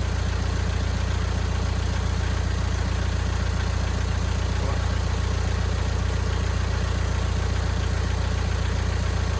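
Engine-like machine running steadily: a loud, even low drone with a fast fine pulse that does not change.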